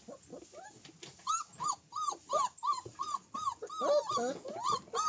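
Dog whining in short, high yips, about three a second, starting about a second in; a second, lower-pitched dog joins in near the end and the calls grow louder.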